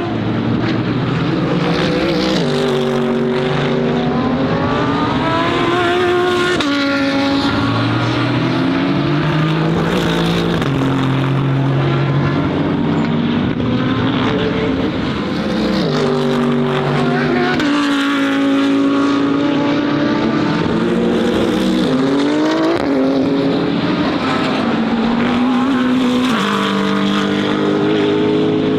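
Several GT3 race car engines running at once. Their pitch climbs and drops back repeatedly as they rev up and shift through the gears, overlapping without a break.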